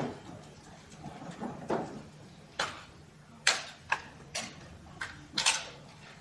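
Irregular sharp taps and clicks, about ten of them; the loudest come in a cluster about three and a half to five and a half seconds in, some with a short bright ring.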